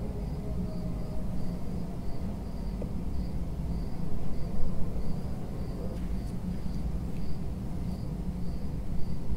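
A cricket chirping steadily, about two chirps a second, over a low steady rumble.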